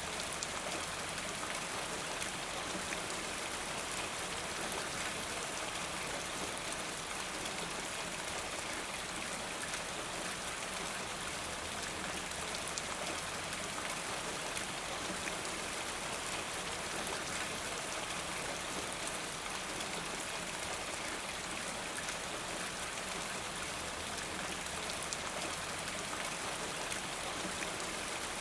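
Steady rain falling, a continuous even hiss with the fine patter of individual drops throughout.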